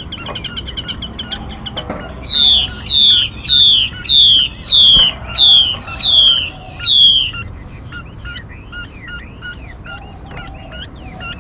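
Recorded songbird calls played as a trapping lure. A fast high trill is followed by eight loud whistled notes, each sliding downward, about two a second. Softer quick chirps run on to the end.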